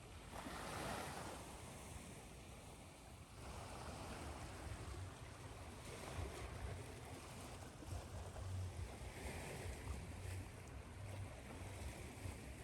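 Ocean surf washing in and out under a steady hiss of white noise, with a swell about a second in.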